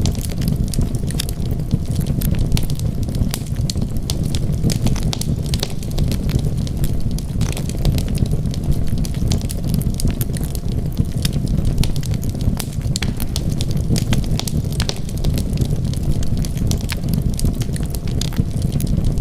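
Wood fire burning: a steady low rumble of flames with frequent sharp crackles and pops scattered throughout.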